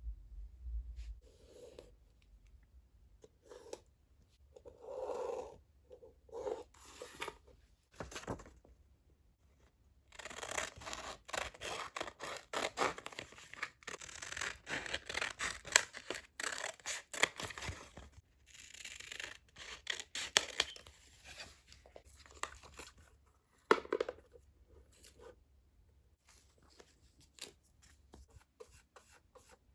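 Paper being cut with scissors and handled: a dense run of quick snips and crinkling through the middle stretch, with a few soft bumps before it and scattered light ticks after.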